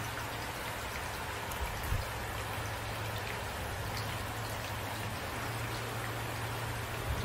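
Steady rain falling, with individual drops ticking close by and a couple of brief low thumps, one about two seconds in and one near the end.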